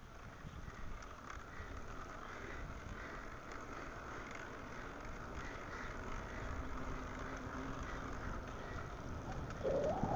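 Steady riding noise on a bicycle ride: low wind rumble on the microphone and rolling tyre noise. A brief rising sound, like a short call, comes near the end.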